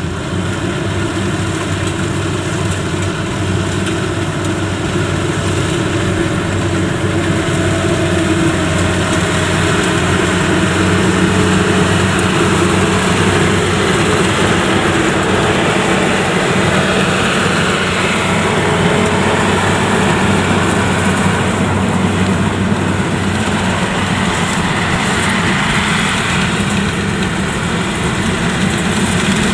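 Yanmar YH85 combine harvester running steadily: a low diesel drone with the clatter of its working machinery, growing a little louder over the first several seconds and then holding.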